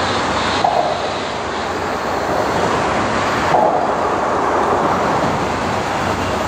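Steady rumbling noise of a CSX mixed freight train approaching from a distance, mixed with general outdoor noise.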